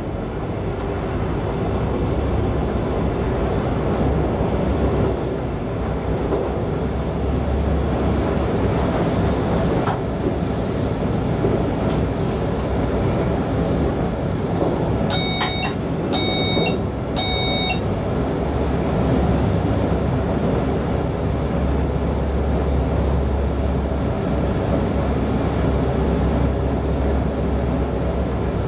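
Electric multiple unit running along the line, heard from the driver's cab: a steady rumble of wheels and drive that builds over the first couple of seconds. About halfway through, three short electronic beeps sound about a second apart in the cab.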